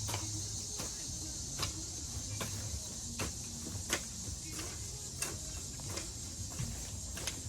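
A jembe digging hoe striking into the soil again and again, about ten short knocks roughly one every 0.7 seconds, as ground is turned over for tilling.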